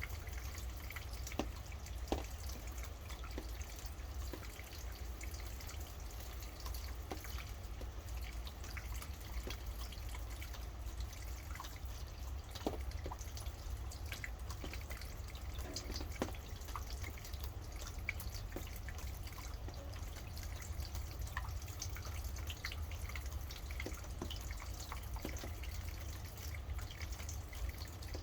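Rain dripping: single drops land at irregular intervals, a second or more apart, over a steady hiss of rainfall. A steady low rumble runs underneath.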